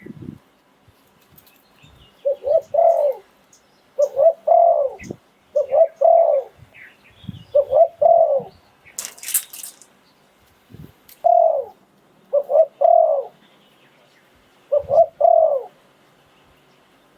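Spotted dove cooing in a string of short two-to-four-note phrases, seven in all, with pauses between them and a longer gap in the middle. About nine seconds in there is a brief burst of hiss.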